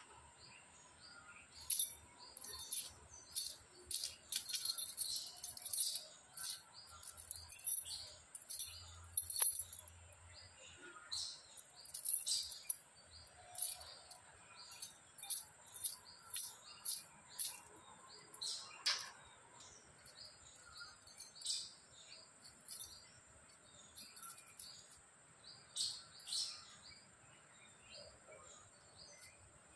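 Small birds chirping: short, high chirps coming irregularly, sometimes several in quick succession, over a faint steady high hiss.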